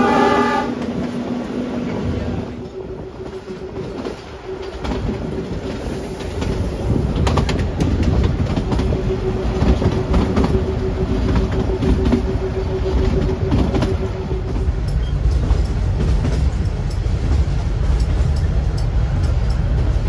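Narrow-gauge toy train running, with steady rumble and the clickety-clack of its wheels over rail joints. A short horn blast sounds right at the start. A steady hum fades out about fifteen seconds in, and the rumble gets heavier after that.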